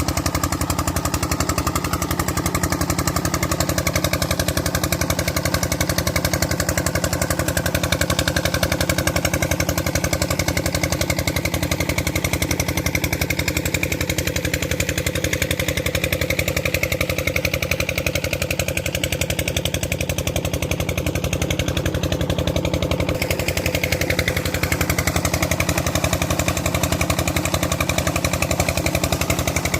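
Diesel engine of a tubewell pump running steadily with a fast, even knocking beat.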